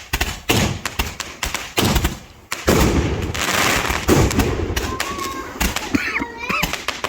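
Fireworks going off in a rapid run of bangs and crackles, with a denser stretch of crackling about three seconds in.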